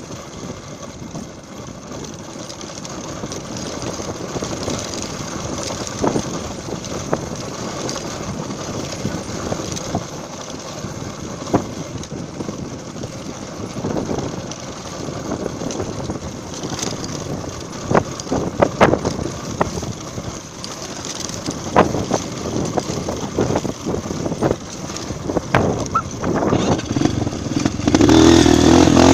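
Honda single-cylinder four-stroke trail motorcycle running while being ridden off-road, with sharp knocks and rattles over rough ground from about halfway through. Near the end the engine gets suddenly louder.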